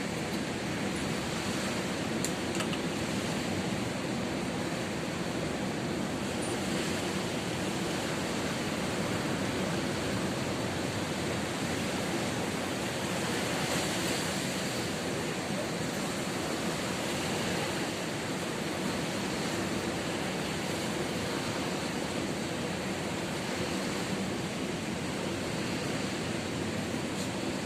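Ocean surf: a steady wash of breaking waves with no distinct individual crashes.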